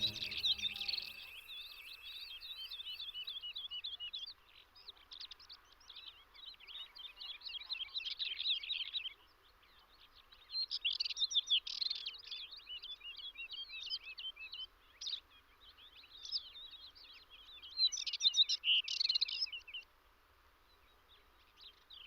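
A songbird singing in repeated runs of quick, twittering chirps, each run lasting a few seconds with short pauses between. The tail of background music fades out in the first seconds.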